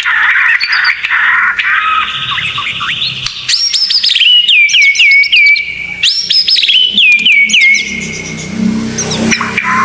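Songbird song from a tutor recording for white-rumped shamas: a busy, chattering warble, then twice a quick run of sharp whistled notes, each sweeping down in pitch. A low rumble comes in under fainter song near the end.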